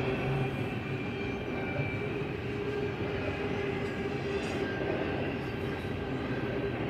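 Double-stack intermodal well cars rolling past on the rails: a steady rumble and rattle of wheels and cars, with a thin steady whine over it.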